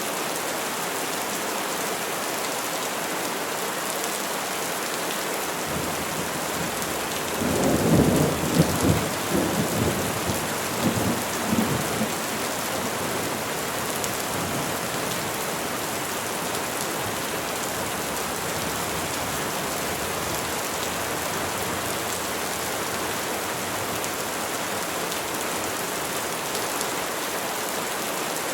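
Steady rain falling on trees, with a low rumble of thunder rolling for about four seconds, a third of the way in.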